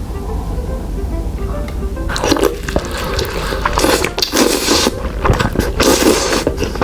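Close-miked mukbang eating sounds: wet, squishy chewing of a soft jumbo telur gulung (rolled fried egg). The chewing comes in repeated bursts from about two seconds in, over light background music.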